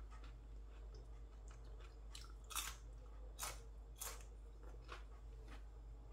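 A person chewing and biting food, with a few crisp crunches between about two and four seconds in; faint.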